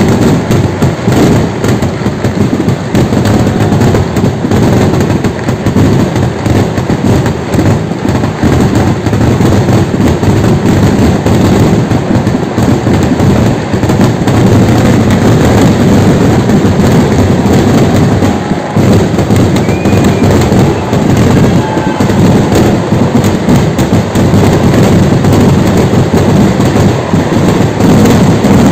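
Fireworks going off in a dense, unbroken barrage, the bangs following so fast that they run together into one continuous, very loud roll.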